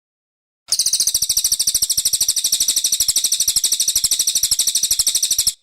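Cililin coklat bird singing one long, very fast, even trill of high, shrill notes, about a dozen a second, that starts and stops abruptly.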